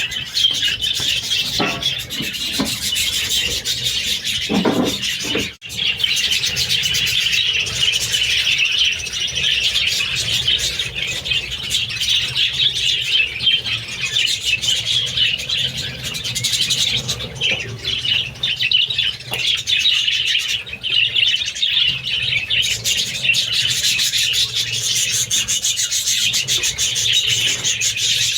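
Budgerigars chirping and chattering continuously in a dense, high-pitched warble, broken only by a momentary gap about five seconds in.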